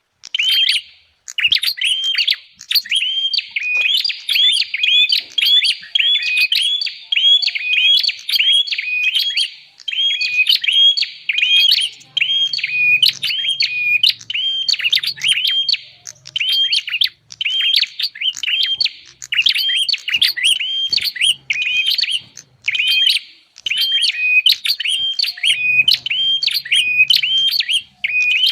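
Prinia (prenjak) lure call: a fast, continuous run of sharp repeated chirps with only brief breaks.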